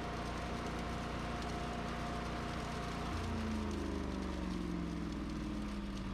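An engine running steadily, its pitch shifting and sliding about three seconds in.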